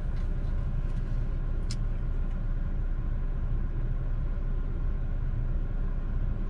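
Parked car's engine idling, a steady low rumble heard inside the cabin, with one faint click a little under two seconds in.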